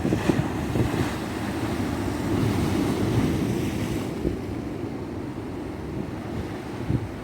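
Ocean surf washing onto a beach in a steady low rush, with wind buffeting the microphone. The wash is fuller in the first half and thins out after about four seconds.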